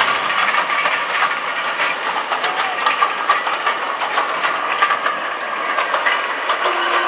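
A train running along the track: a steady hiss with many short rattling clicks from the wheels and rails. Near the end a locomotive horn starts sounding one steady low note.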